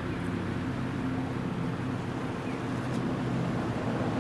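Steady low hum of a running vehicle engine, with a few faint short bird chirps over it.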